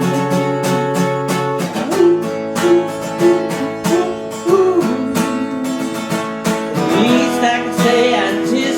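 Acoustic guitar strummed in a steady rhythm, with a wordless voice singing along over the chords after about two seconds.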